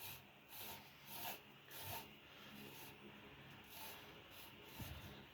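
Faint rubbing of a cloth wiping dust off a desk fan part: a few short swishes in the first two seconds, then quieter rubbing, with a soft knock near the end.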